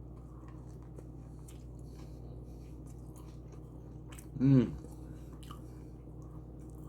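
Close-up mouth sounds of a person chewing a bite of toasted tuna sub, with faint wet clicks. About four and a half seconds in comes a brief hum from the eater's voice.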